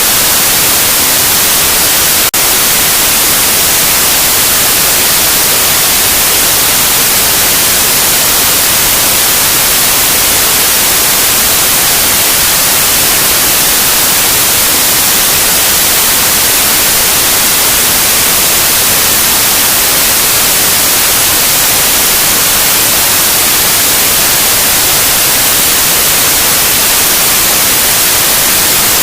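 Loud, steady white noise, an even hiss across all pitches, strongest in the treble. A single brief click and momentary drop in level about two seconds in, like a loop splice.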